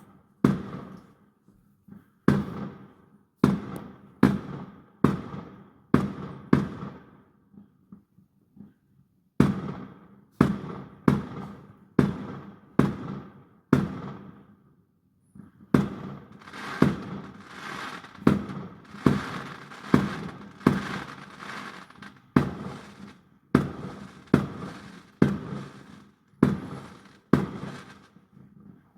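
Fireworks going off: a long run of sharp bangs, roughly one a second, each trailing off with an echo. There are two brief pauses, and midway there is a stretch of dense, continuous crackling.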